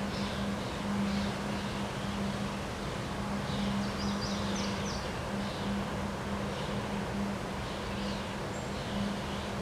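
Small birds chirping in short repeated calls, with a quick run of higher chirps about four seconds in, over a steady rush of wind noise and a low steady hum.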